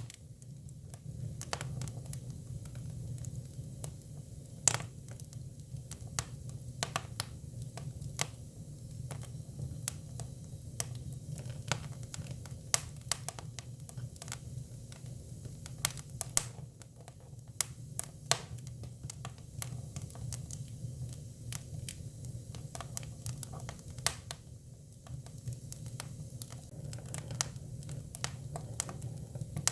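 Hinoki (Japanese cypress) firewood burning, crackling and popping at irregular intervals over a low, steady rumble of the fire.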